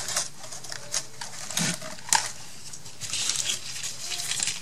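Paper flowers and small craft embellishments being handled and sorted: rustling with light clicks and taps, the sharpest tap a little after two seconds in.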